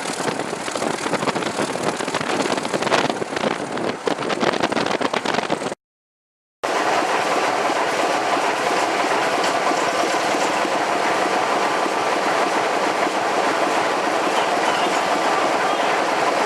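Train running on rails, with wheels clattering over the track, as a busy rattling stretch. The sound drops out completely for under a second about six seconds in, and then comes back as a steadier running noise with a held droning tone.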